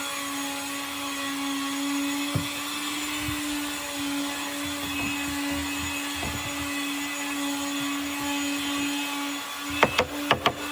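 Electric power tool motor running steadily with an even hum, with a quick series of sharp knocks near the end.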